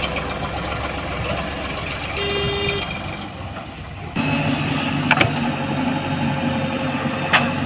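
Heavy diesel machinery running: a low rumble with a short horn toot a couple of seconds in, then from about four seconds a louder, steady engine drone with a few sharp clanks.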